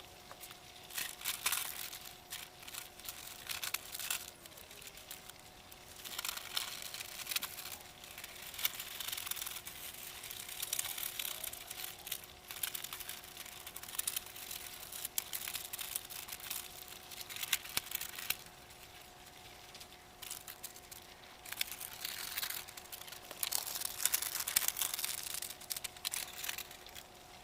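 Dry material being handled, rustling and crinkling in irregular bursts with short pauses between them, over a faint steady hum.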